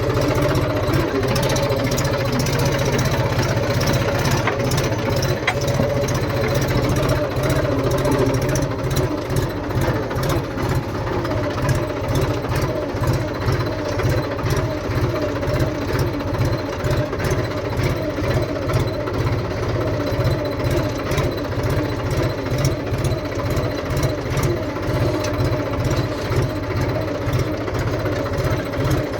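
Mahindra tractor's diesel engine running steadily with an even, regular low beat.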